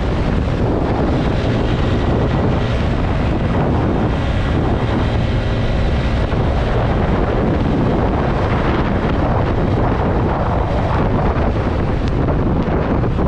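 Wind rushing and buffeting over the microphone of a motorcycle at highway speed, with the TVS Apache RTR 160 4V's engine running steadily beneath it.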